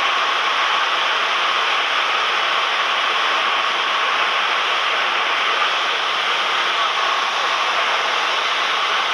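Cessna 172M cabin noise in flight: the engine and airflow heard as a steady, even hiss with a faint steady tone.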